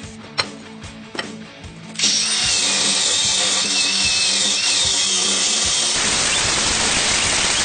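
A couple of sharp clinks, then about two seconds in a power tool starts abruptly and runs loudly and steadily, with a wavering squeal in its noise.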